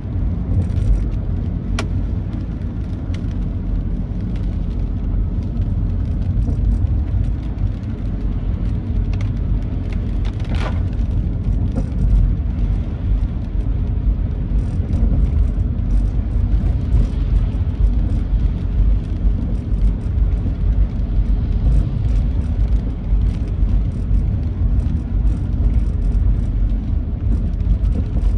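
Steady low rumble of a vehicle driving on a wet road: engine, tyre and wind noise. There is a brief click about two seconds in and a short swish around ten seconds.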